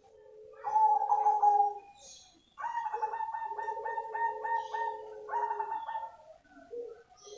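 Cemani zebra dove (perkutut) cooing in two phrases: a short coo about a second in, then a longer phrase that starts with quick stuttering notes and ends in a drawn-out coo.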